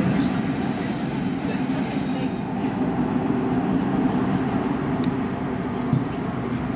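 Train running past on the tracks: a loud, steady rumble of wheels on rail with a high, steady wheel squeal over it for the first four seconds and again near the end.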